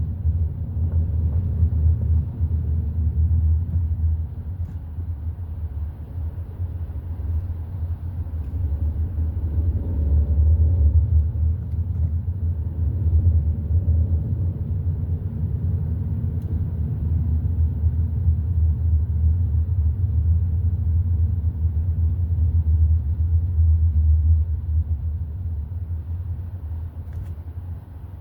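Hyundai i30 N Line being driven: a steady low rumble of engine and road noise, with a faint wavering tone partway through, easing off over the last few seconds.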